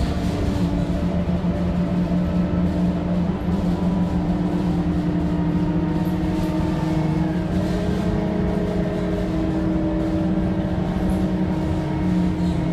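Scania K230UB city bus's 9.3-litre Scania DC9 diesel engine running under way, a steady drone whose pitch rises slightly after the middle.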